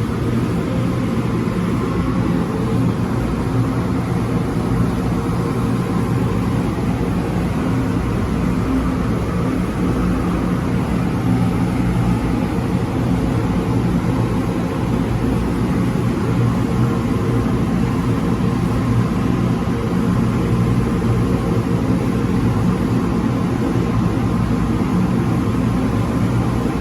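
Car wash air dryer blowers, older Hanna Sherman units (a top blower and two side blowers), running steady and loud: a constant rush of air over a low fan hum, heard from inside the car.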